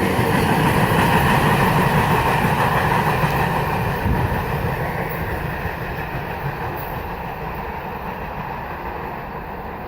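Manifest freight train's cars rolling past on steel wheels, a steady rumble and rattle that fades steadily over the second half as the train moves away.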